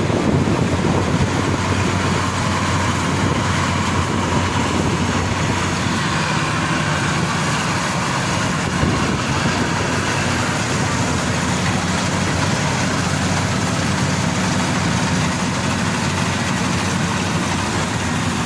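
Maxxi Bimo Xtreme combine harvester's engine running steadily at a constant pitch, loud and unbroken.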